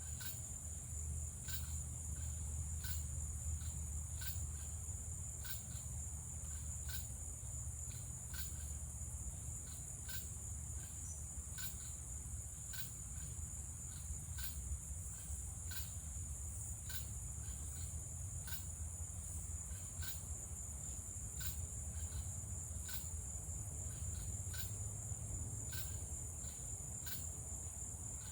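Evening insect chorus of crickets and cicadas: a steady high-pitched trill, with short repeated clicking chirps a little over once a second. A low steady rumble runs underneath.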